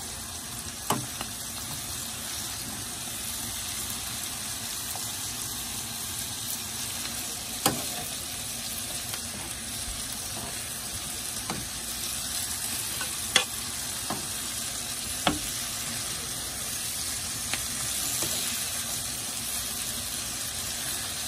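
String beans and sliced onions sizzling in oil in a frying pan. The stirring utensil knocks against the pan a few times with sharp clicks.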